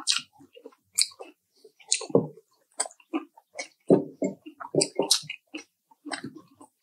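Close-miked chewing of crispy fried chicken: irregular wet smacks and crunches, several to a second.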